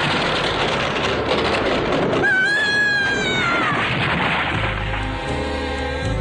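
Cartoon soundtrack: a dense rushing noise for about two seconds, then a high drawn-out tone that slides downward, then background music with a steady low note.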